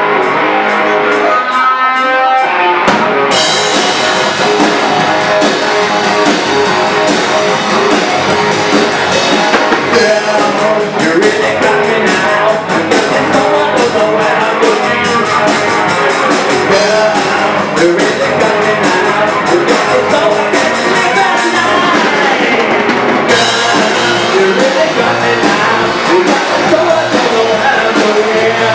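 Live rock band playing, electric guitar over a drum kit. A sliding guitar figure opens, and the drums and cymbals come in about three seconds in.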